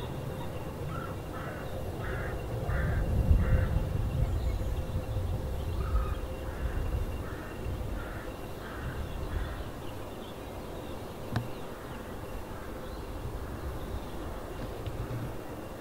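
A crow cawing in two runs of about five to six harsh calls each, over a low outdoor rumble, with a single sharp click late on.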